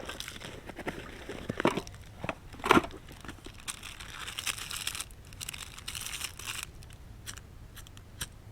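Crinkling and crunching handling noises with a few sharp knocks, the loudest about three seconds in, then scattered clicks near the end.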